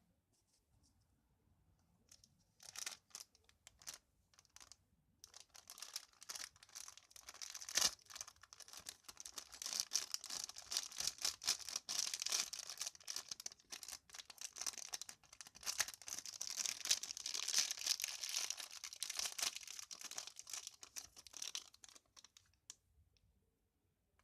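Packaging being crinkled and torn open by hand: a dense, rapid crackling that starts a couple of seconds in and stops near the end.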